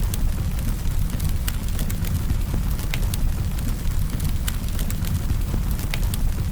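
Campfire burning: wood crackling with irregular sharp pops over a steady low rumble of the flames.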